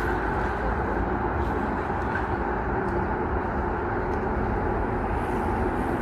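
Seoul Subway Line 2 train running across a steel railway bridge: a steady rumbling roar with no break.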